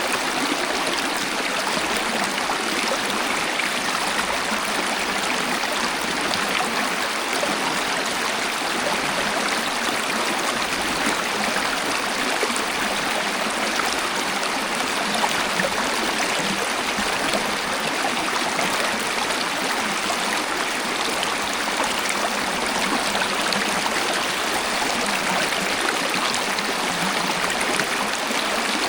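Waterfall and flowing water, a steady, even rush with splashing and no pauses.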